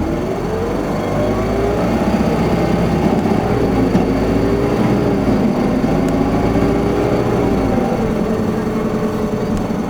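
Isuzu Erga city bus's diesel engine heard from inside the cabin, pulling under acceleration. The engine note climbs in the first couple of seconds, then rises and falls several times as the bus gathers speed and changes gear, and settles to a steadier note near the end.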